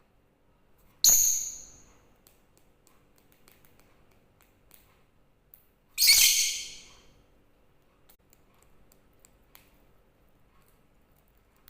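Lovebird giving two high-pitched screeches, one about a second in and one about six seconds in, with faint clicks in between.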